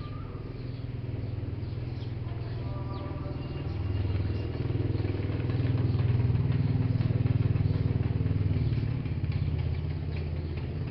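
A motor running with a low, rapidly pulsing drone that swells louder partway through and then eases off.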